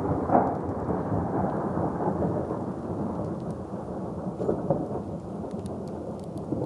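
Thunder from a thundersnow storm rumbling on with a sharper crack about half a second in, then slowly dying away, over steady falling precipitation.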